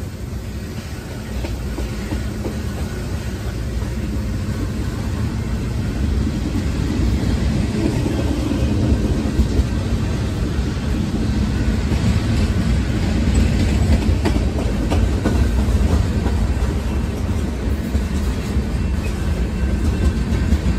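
Freight train's tank cars and covered hopper cars rolling past: a steady rumble of steel wheels on rail with scattered clacks, growing louder over the first several seconds and then holding.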